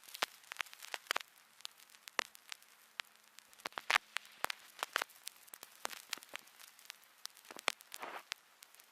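Irregular sharp crackles and clicks, several a second and uneven in strength, over a faint hiss: a crackling sound effect, like sparks or static.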